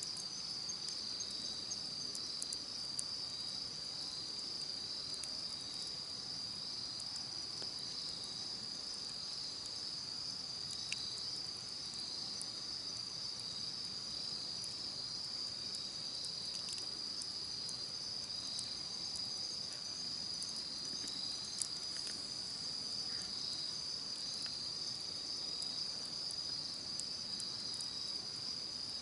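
Crickets trilling in a steady, high chorus, with a faint pulsing beat under the main trill. Now and then a sharp crackle or pop from a wood campfire, the clearest ones about 3, 11 and 22 seconds in.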